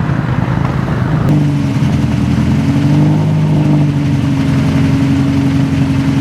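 Rally car engines. A loud engine with a rushing noise changes abruptly about a second in to another engine running at fairly steady revs, its pitch rising and falling slightly.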